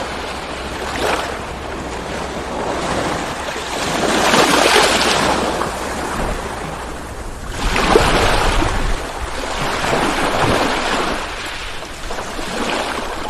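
Ocean waves rolling in one after another, a steady wash of surf that swells about four seconds in and again, loudest, about eight seconds in with a low rumble.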